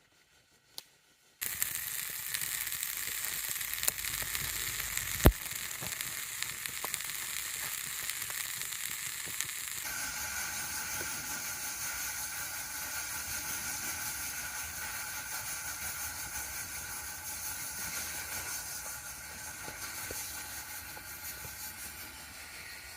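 Food frying in a hot pan, the sizzle starting suddenly about a second and a half in and running on with scattered pops, plus one sharp click about five seconds in.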